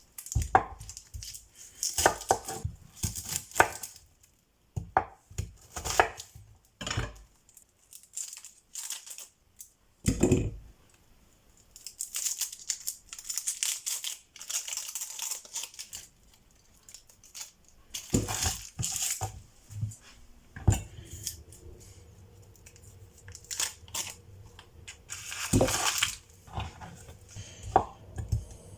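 Kitchen food-preparation handling noises: irregular tearing and crinkling with scattered light knocks and clatter, coming in short bursts with brief pauses.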